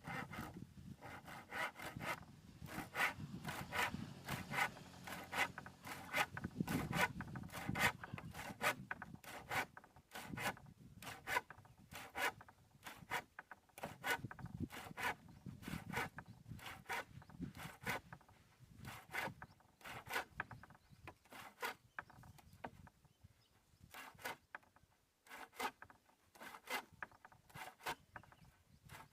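Rhythmic back-and-forth strokes of a hand tool working wood, about two to three strokes a second, thinning out to spaced strokes with short pauses in the last third.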